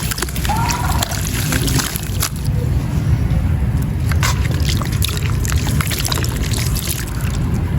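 Lumps of gritty wet sand crumbling into water: a dense run of small crackles and trickling splashes over a steady low rumble.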